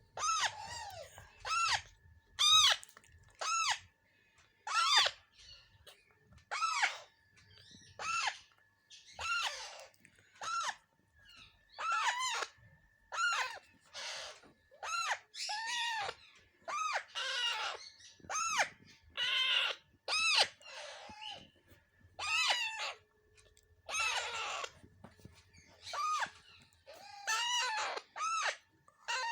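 Alexandrine parakeets calling: harsh squawks repeated about once a second, most an arched note rising then falling, some rougher and raspier.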